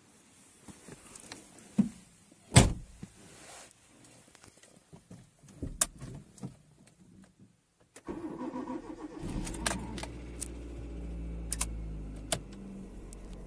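A few clicks and knocks, then a vehicle engine starts about eight seconds in and runs steadily.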